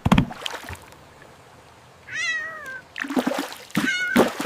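A cat meowing: one long falling meow about two seconds in and a shorter meow near the end, among short knocks and clatter, the loudest of them right at the start.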